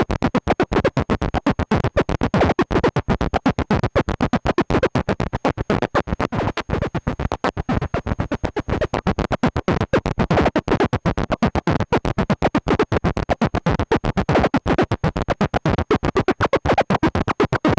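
Korg MS-20 analog synthesizer run through a Boss DD-5 digital delay, playing a rapid, evenly chopped, gritty pulsing patch voiced to mimic a stalling engine.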